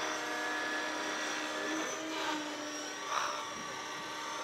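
Radio-controlled helicopter flying 3D aerobatics: a steady whine of motor and rotor, with brief swishes of the spinning blades as it is thrown around, two of them about two and three seconds in.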